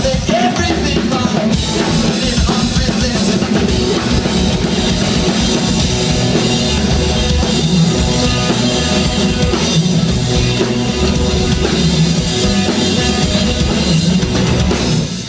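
Rock band playing loudly, with the drum kit prominent.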